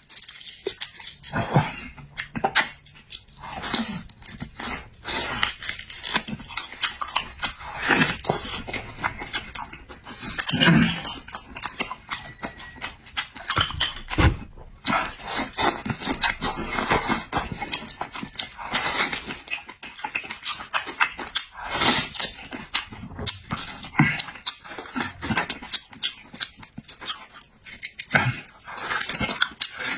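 Close-miked chewing and lip-smacking of a person eating pork: a dense, irregular run of short wet clicks and smacks.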